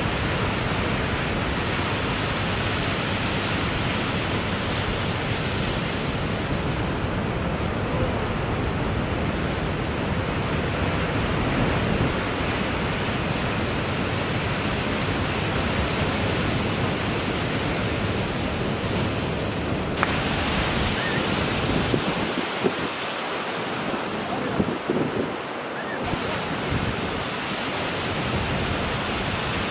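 Ocean surf rushing and breaking, a steady wash of noise.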